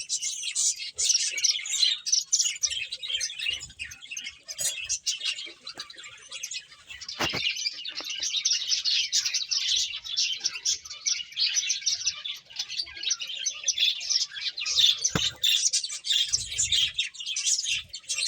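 Pet finches chirping continuously, many short overlapping high calls, with two sharp clicks, one about seven seconds in and one near fifteen seconds.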